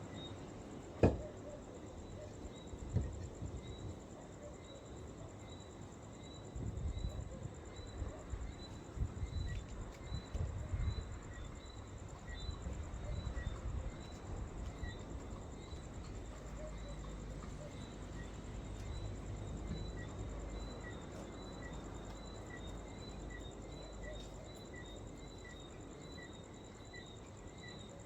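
Insects chirping outdoors in an even pulse of about two chirps a second over a steady high insect drone. A sharp click comes about a second in, and there is irregular low rumbling in the middle.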